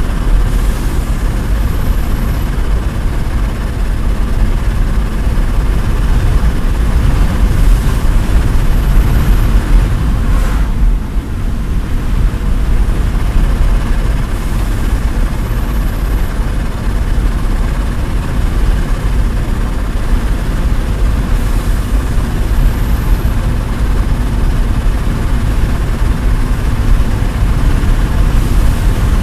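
Heavy engine running steadily, a loud low rumble with dense noise over it, easing briefly about eleven seconds in.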